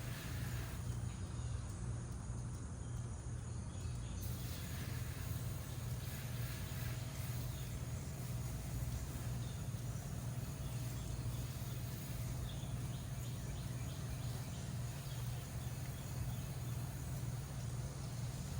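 Steady low machine hum, with faint insect and bird chirping over it.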